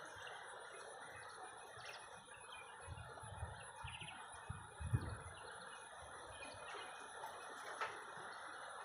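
Quiet background with faint bird chirps over a steady hiss, and a couple of soft low thumps in the middle.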